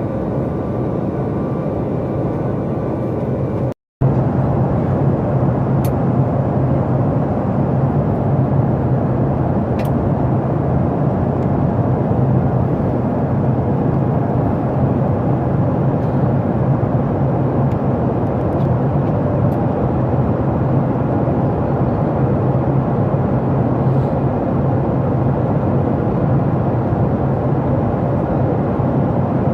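Steady drone of a Boeing 737 MAX 8's CFM LEAP-1B jet engines and airflow heard inside the passenger cabin. It drops out to silence for a moment about 4 seconds in, then carries on unchanged.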